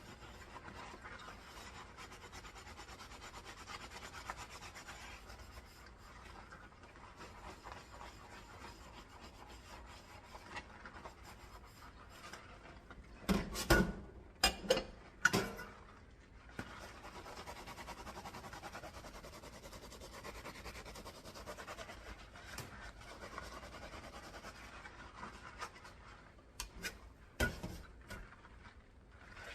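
Dishes being washed by hand: a steady scrubbing and rubbing, with a cluster of sharp clatters of dishware knocking together about halfway through and a few more near the end.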